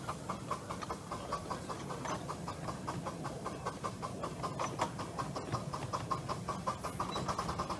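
Miniature light railway train running, a fast regular beat of about six pulses a second over a steady low rumble.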